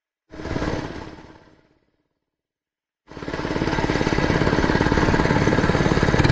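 Mini bike's small gasoline engine: a short burst of running that dies away within about a second and a half, then after a gap of silence the engine runs steadily with a fast, even firing beat.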